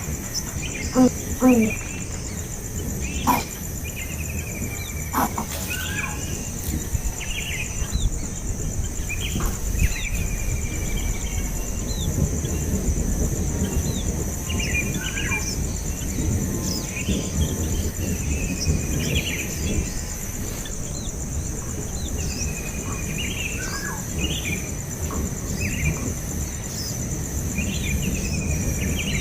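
Small birds giving short high chirps, scattered irregularly, over a steady high-pitched insect drone and a low background rumble.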